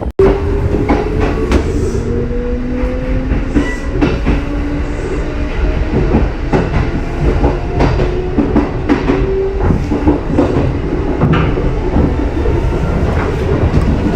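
Kintetsu 2800-series and 2430-series electric train running, its wheels clicking irregularly over rail joints. A whine rises in pitch over the first few seconds, holds steady, then fades out about ten seconds in.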